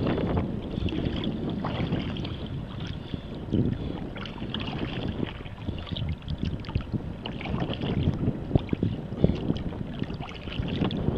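Water splashing and sloshing around a kayak as it is paddled, in irregular small splashes, with wind buffeting the microphone.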